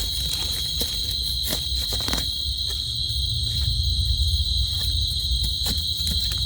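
A chorus of night insects such as crickets gives a steady, unbroken high-pitched drone. Underneath it runs a low rumble, with a few scattered light clicks.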